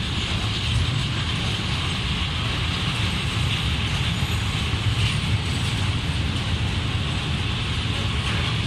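Freight train of open coal wagons rolling past close by: the steady rumble of wheels on rail with a higher rushing noise above it.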